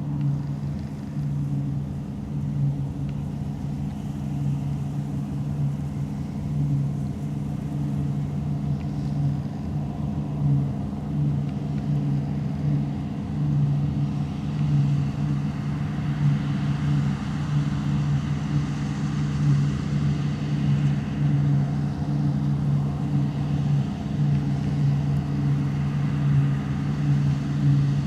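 Deutz-Fahr Topliner 4090 HTS combine harvester running steadily under load, a low engine drone with a hiss over it that grows somewhat louder about halfway through.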